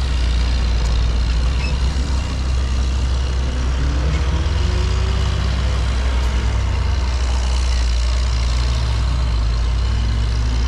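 Steady road traffic noise from trucks and cars passing on a busy highway, with a continuous deep rumble.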